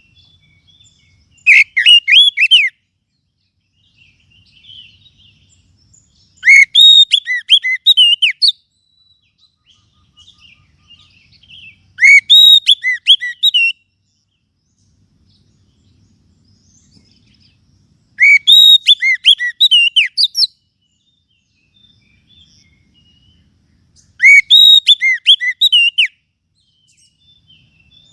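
Oriental magpie-robin calling in five bursts of rapid, clear whistled notes, each one to two seconds long, repeating about every six seconds. Faint chirps come between the bursts.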